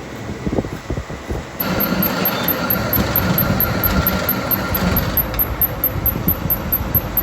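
A machine running with irregular knocks; about a second and a half in it grows louder and a steady whine joins it, which stops about five seconds in while the running noise continues.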